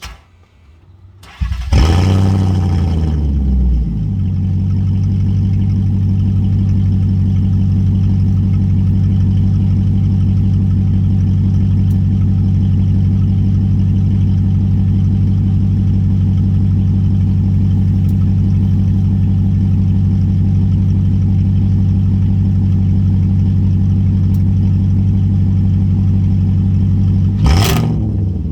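Straight-piped Volvo XC90 4.4-litre V8 cold-started: it cranks briefly, catches about a second and a half in and flares up, then settles into a loud, steady idle. Near the end it is blipped once, a quick rev up and back down.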